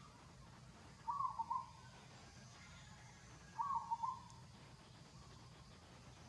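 A bird calling twice, each a short call of a few quick notes, repeated about every two and a half seconds, over a faint low background hum.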